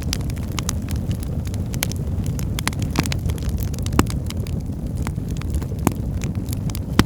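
Wood fire in a fireplace crackling: a steady low rumble of burning with frequent sharp pops and snaps, the loudest about four seconds in and near the end.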